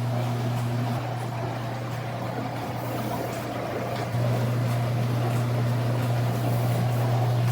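COMFEE' countertop mini dishwasher running its wash cycle: a steady pump hum with water spraying inside, growing louder about four seconds in.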